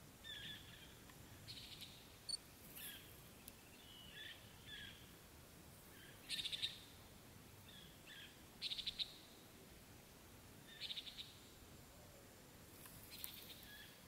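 Faint outdoor bird calls: short high chirps and quick buzzy runs of notes, every second or two.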